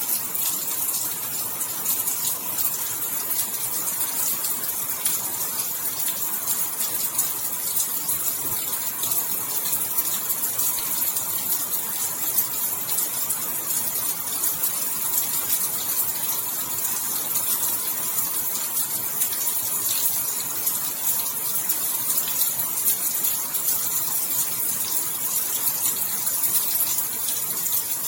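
Steady rain falling: an even wash of water noise full of fine, close-packed drop ticks, holding constant throughout.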